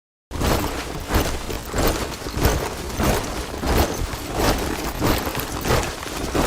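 A squad of soldiers marching in step, boots striking the ground together in a steady rhythm of about one and a half steps a second. It cuts in suddenly a moment in, after dead silence.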